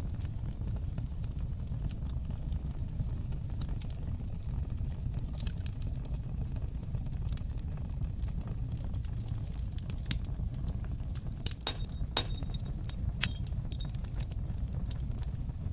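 Wood fire burning in a fireplace: a steady low rumble of flames with scattered sharp crackles that grow busier past the middle, and one loud pop late on.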